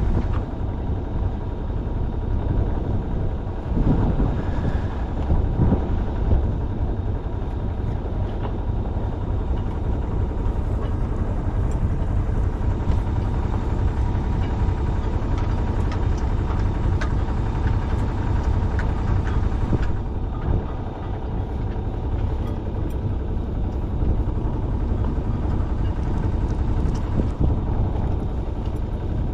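Sailing yacht's engine running steadily under way, a continuous low rumble, with a few knocks about four to six seconds in.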